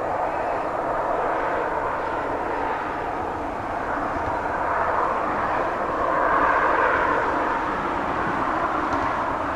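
Steam-hauled train running at speed, a steady rushing roar of exhaust and running gear that swells to its loudest about two-thirds of the way through.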